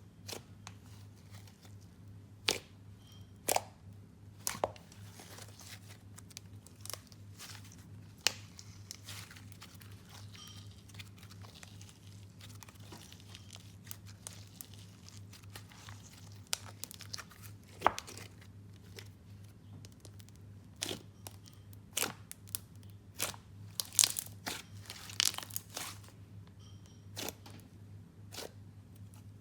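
Jelly slime being squeezed and stretched by hand, giving scattered sharp clicks and crackling pops, with a busier run of pops near the end, over a steady low hum.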